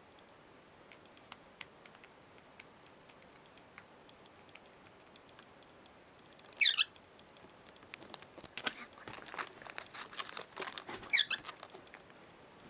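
Cockatiel giving two short chirps, about halfway through and near the end, amid light clicking and a patch of rustling from its feet and beak in the folded cloth.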